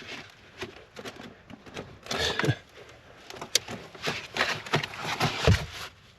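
Irregular scraping, rustling and knocking of hands working a cable through a car's wiring, with a few sharp clicks among the longer scrapes.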